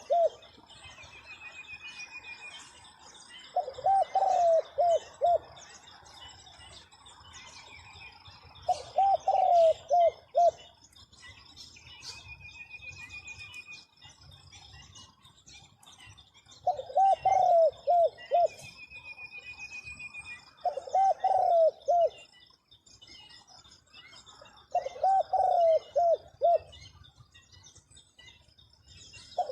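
Zebra dove cooing: six phrases of several quick rising-and-falling coos, spaced a few seconds apart. Between the phrases another bird gives short high trills, over a steady faint high-pitched buzz.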